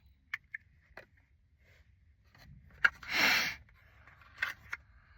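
A few small clicks and handling noises, with a short hissing rush about three seconds in.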